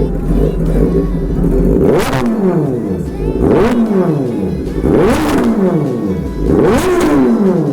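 Kawasaki inline-four superbike engines revved hard four times in a row, about every one and a half seconds, each rev climbing steeply in pitch to a loud peak and then falling away. Steady engine running comes before the first rev.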